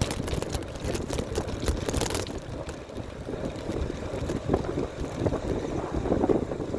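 Wind buffeting the microphone of a camera on a moving bicycle, a steady rushing rumble, with a few light clicks or rattles in the first couple of seconds.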